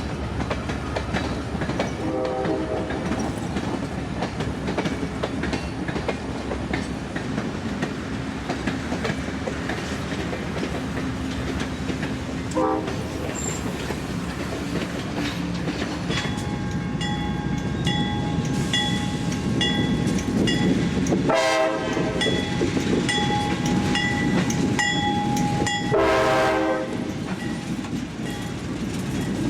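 Amtrak passenger train moving slowly through a wye, with a steady rumble of wheels on rail. Its horn sounds several short blasts, and from about halfway a bell dings steadily alongside.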